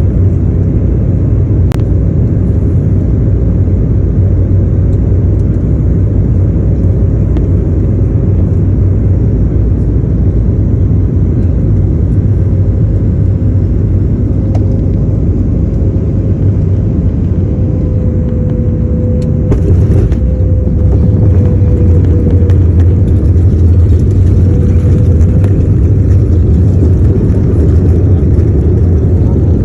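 An airplane landing: a loud, steady rumble of engines and airflow with a faint held whine. About twenty seconds in there is a brief rattling burst, after which the rumble gets louder, as at touchdown.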